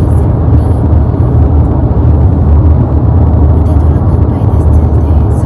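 A car on the move: a steady, loud, low rumble of road and engine noise.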